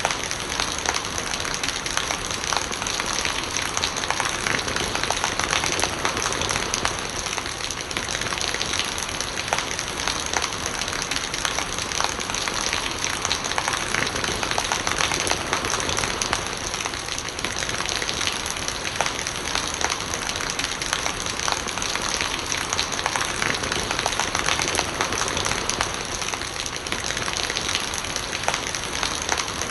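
Steady rain falling, with many individual drops ticking close by, and rainwater gurgling.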